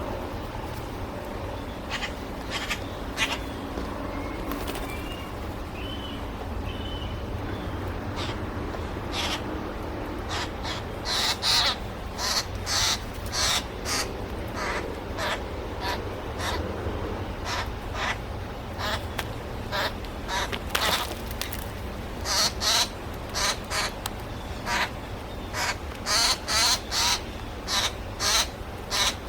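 A bird at a seed feeding spot calling over and over in short loud calls, a few at a time in quick series, the calls becoming frequent about a third of the way in. A low steady rumble runs underneath.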